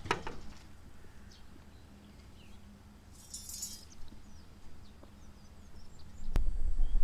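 Outdoor ambience with scattered short bird chirps and a brief high buzz in the middle, after a light clink at the very start. About a second before the end, a loud low rumble cuts in suddenly.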